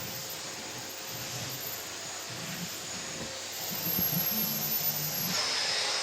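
Household vacuum cleaner running with a steady hiss, growing louder about four seconds in and brighter near the end.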